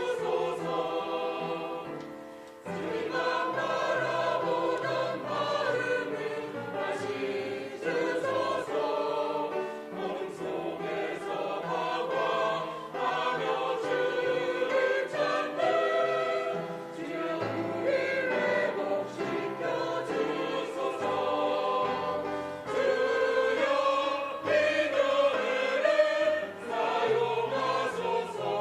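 A church praise team singing a worship song with instrumental accompaniment, with a short pause between phrases about two seconds in.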